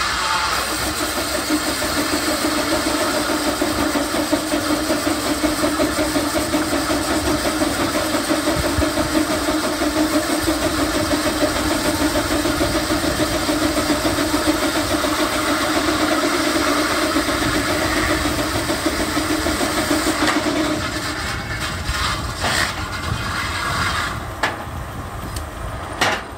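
An engine running steadily. About twenty seconds in its drone fades and thins, and a few clicks follow near the end.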